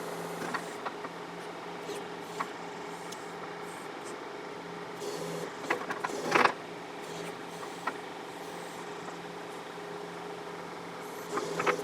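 John Deere 4052R tractor's diesel engine running steadily while its 485A backhoe pushes against a stump. Scattered sharp knocks and cracks come through, the loudest about six and a half seconds in.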